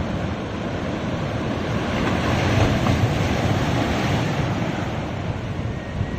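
Ocean surf washing onto a beach: a steady rushing wash of waves with a low rumble that swells a little midway, with wind buffeting the microphone.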